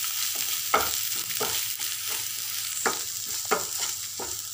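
Onion and spice masala sizzling in hot oil in a nonstick frying pan, stirred with a wooden spatula that scrapes and knocks against the pan in short irregular strokes, the sharpest about a second in and about three and a half seconds in.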